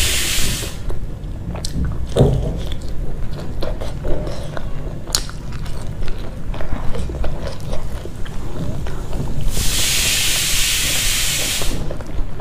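Close-miked chewing of fried pakora and rice, with wet mouth clicks and smacks throughout. Crunching fades out just under a second in, and a second spell of crunching runs for about two seconds near the end.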